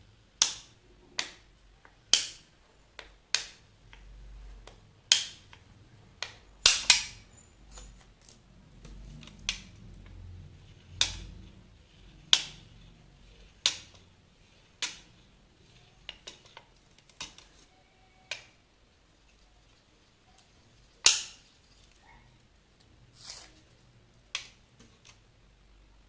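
A string of sharp clicks and taps from hands working with small craft materials on a tabletop, coming irregularly at roughly one a second.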